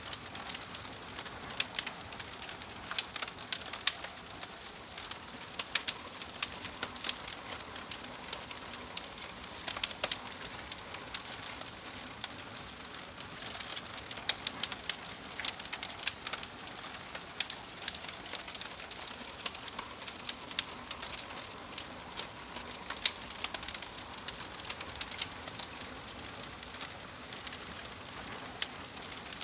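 Fire crackling: a soft steady hiss with frequent irregular sharp pops and snaps, several a second.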